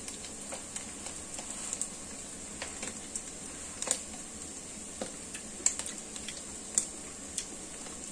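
Minced pork with preserved vegetables frying in a wok: a steady sizzle broken by irregular crackles and pops.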